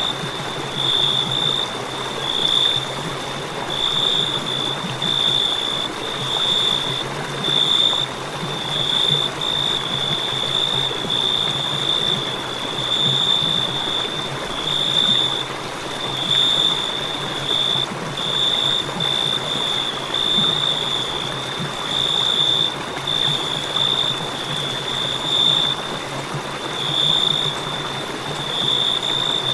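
Cricket chirping in a steady high-pitched trill, broken into pulses of about half a second to a second with short gaps, over a constant soft hiss of night ambience.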